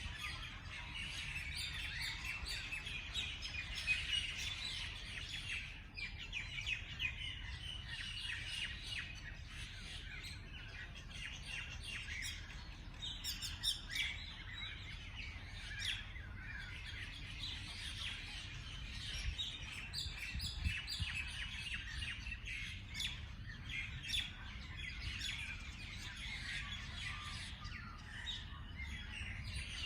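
Many small songbirds chirping and twittering together in a dense, continuous chorus of quick high notes, over a low steady rumble.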